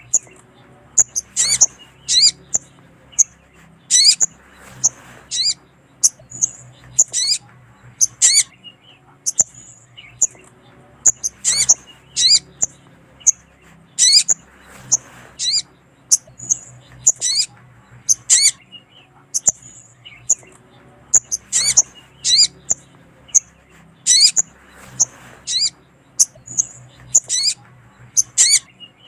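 Little spiderhunter (sogok ontong) calling: sharp, high chirps repeated in twos and threes about once a second. It is a female's call used as a lure to draw males.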